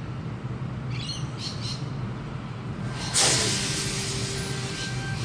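A stationary Tangara electric train standing at the platform lets off a sudden loud hiss of air about three seconds in, fading over a second or so, after which a steady whine sets in; a few short bird chirps come about a second in.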